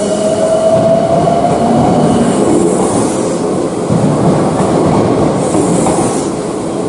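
Electric train running on the rails, a steady loud rumble with a faint whine rising in pitch over the first couple of seconds.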